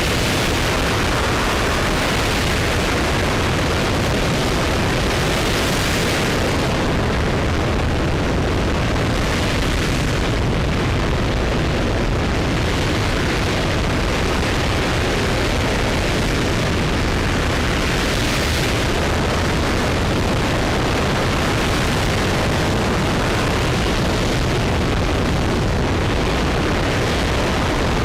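RS-25 liquid-hydrogen rocket engine firing on a ground test stand: a continuous roar of rocket exhaust, steady throughout, its hiss swelling and easing slightly every few seconds.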